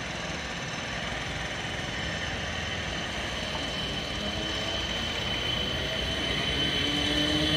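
Two coupled Class 455 electric multiple units running along the track past the platform. The steady rumble of wheels on rail grows slowly louder as they come nearer, and a whine rising in pitch comes in near the end.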